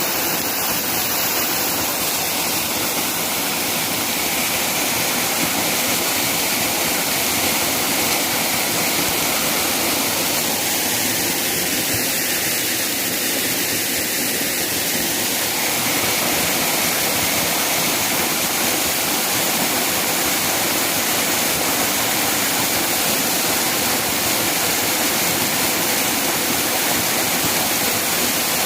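Waterfall: a steady rush of falling water with a strong hiss.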